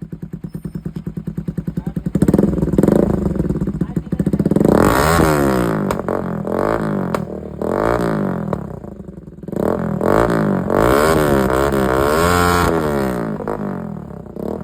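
Bajaj Pulsar NS200's single-cylinder engine idling with even exhaust pulses, then revved up and down repeatedly, several quick rises and falls in pitch from about five seconds in.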